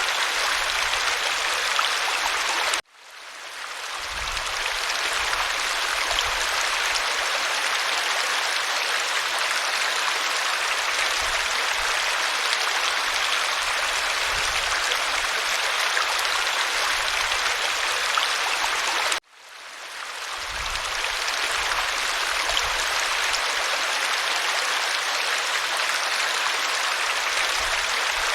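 Waterfall: a steady, even rush of falling water. It cuts out abruptly about three seconds in and again some sixteen seconds later, each time swelling back up over a second or two.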